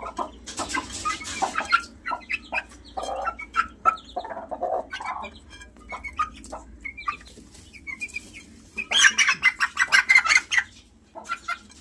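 Two-month-old Aseel chicks of the Parrot Beak strain clucking and peeping in short, scattered calls. For a couple of seconds near the end the calls crowd together densely.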